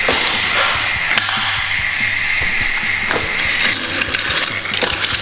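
Battery-powered TrackMaster toy train motors running on plastic track, a steady high whine with rattling and clicking of gears and wheels. The whine drops out after about three and a half seconds while the clicking goes on.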